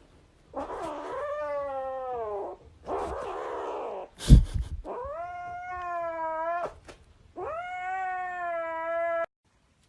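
A cat yowling in three long, drawn-out calls, the first falling in pitch and the later two held steady, with a rough noisy stretch after the first call and a sharp thump about four seconds in.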